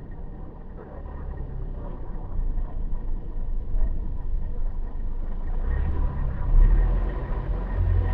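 Car driving on city streets: a steady low engine and tyre rumble that grows louder about six seconds in.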